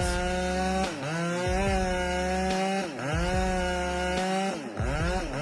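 Two-stroke chainsaw running at high revs and cutting wood. Its engine pitch drops and climbs back three times as the chain bites in and is eased off.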